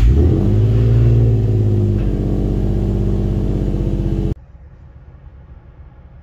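Infiniti G35 coupe's 3.5-litre V6 running at a high, steady fast idle just after a cold start; the engine note steps down slightly about two seconds in. It cuts off abruptly a little past four seconds, leaving a faint low rumble.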